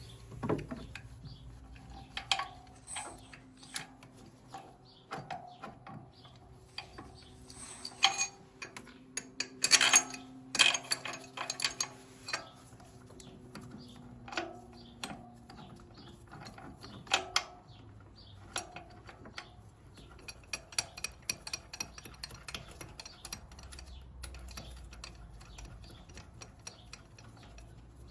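Hand tools and metal engine-mount hardware clinking and knocking while the engine mount is being refitted, with a run of quick even clicks from a ratchet wrench about two-thirds of the way through.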